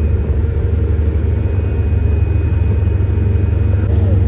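Steady, loud low rumble of a passenger ferry underway, its engine drone running with a faint steady hum above it.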